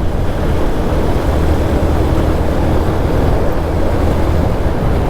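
Wind rushing over the microphone of a moving motorcycle, with the bike's engine and road noise running steadily underneath.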